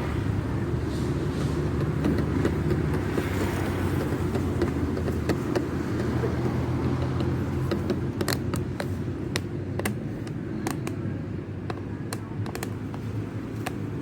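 A motor vehicle engine idling steadily, with a series of sharp clicks and taps over the second half.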